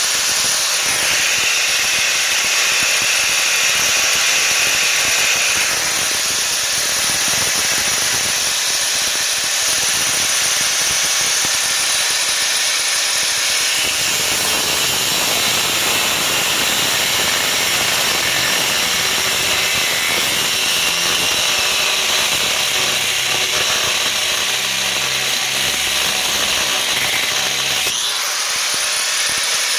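DeWalt angle grinder with a cut-off wheel cutting through a steel coil spring on a truck, running steadily under load with a harsh, high grinding hiss. The sound eases a little just before the end.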